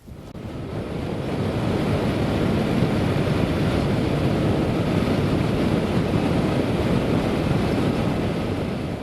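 Loud rush of wind and road noise on the microphone of a motorcycle travelling at speed, building over the first couple of seconds, then steady, easing off near the end.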